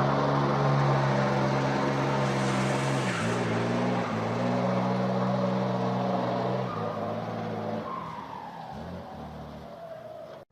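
Motor vehicle engine running at a steady pitch, its pitch stepping twice, then fading away before cutting off suddenly.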